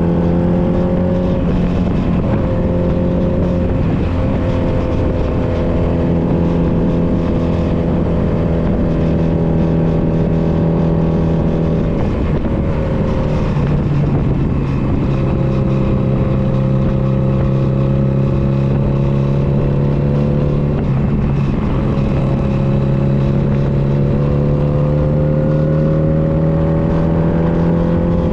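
Honda Nighthawk 250's air-cooled parallel-twin engine running while riding, its pitch climbing slowly and dropping back several times, over a steady low wind rumble.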